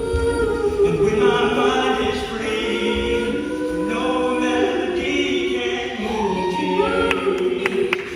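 High school show choir singing in harmony, with sustained chords that shift every second or so and a gliding phrase near the end.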